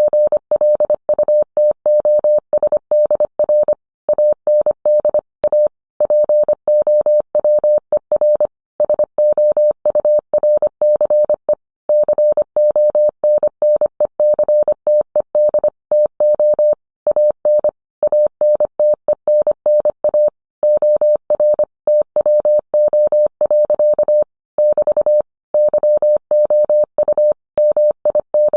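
Morse code sent as a single mid-pitched tone, keyed on and off quickly in dots and dashes with brief pauses between words.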